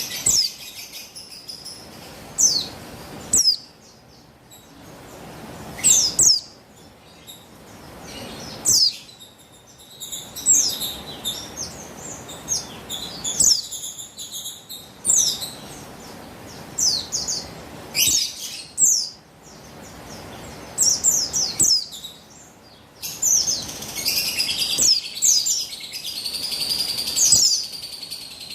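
Female buxtoni white-eye (pleci) calling: clusters of thin, high, quickly falling chirps with short pauses between them, turning into dense, busy twittering near the end. These are the calls of a female used to rouse male white-eyes into song.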